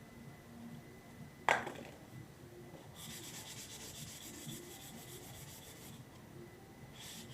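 Sandpaper rubbed in quick back-and-forth strokes over a 3D-printed prop part for about three seconds, with a short second pass near the end. A single sharp click, the loudest sound, comes about a second and a half in.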